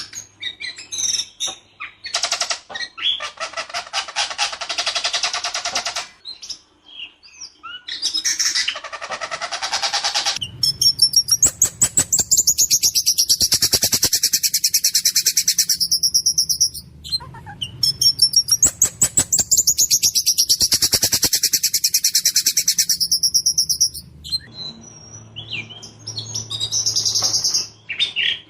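Whistling thrush (ciung batu) singing hard: harsh buzzy phrases, then two long rapid rattling rolls of about six seconds each with high whistled notes over them, followed by short scattered calls.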